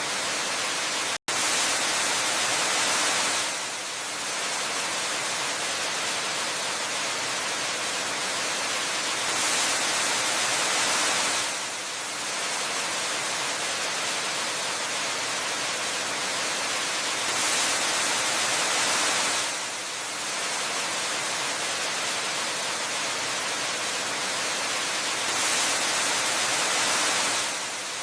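Waterfall ambience: a steady rushing-water hiss that swells a little louder for about two seconds roughly every eight seconds, with a split-second dropout to silence about a second in.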